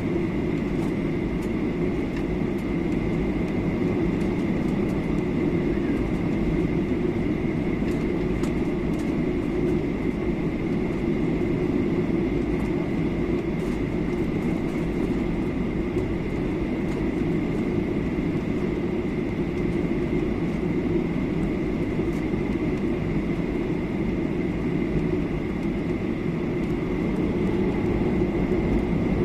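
Steady cabin noise inside a Boeing 737-800 descending: a low, even rush of engine and airflow, with a thin steady whine running through it.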